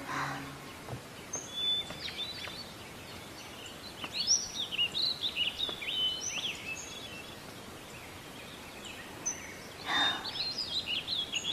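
Small birds chirping, quick rising and falling calls in two spells, over a faint steady hiss of outdoor ambience. A brief soft whoosh comes about ten seconds in.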